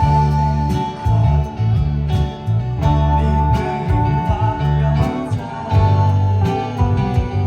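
Live band music: a guitar-led passage over bass and a steady drum beat, with a long held lead note.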